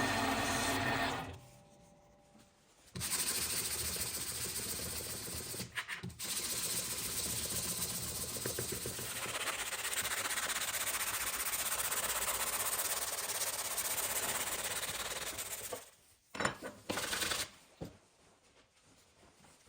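Steady abrasive scrubbing of rusty metal, like sanding or brushing off rust, running for about thirteen seconds with one short break. A humming machine stops about a second in, and there are a few light knocks near the end.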